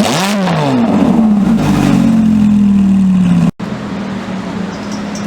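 Ferrari engine given a quick rev that rises and falls, then a long falling drone as the revs drop or the car draws away. After a sudden cut about three and a half seconds in, an engine runs steadily and more quietly.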